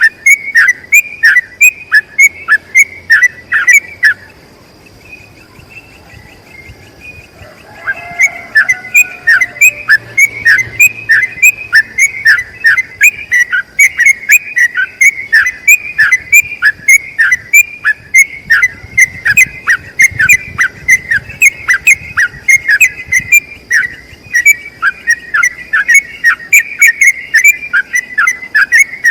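Yellow-vented bulbul (trucukan) singing a long, fast run of short, falling whistled notes, two or three a second, with a pause of a few seconds near the start before the run resumes. A faint steady high whine sounds underneath.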